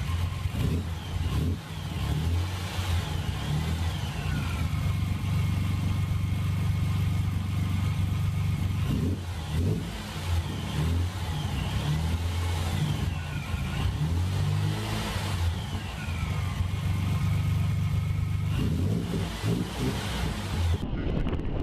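Car engine running under load and revving, a low steady drone with a higher whine that climbs and drops several times.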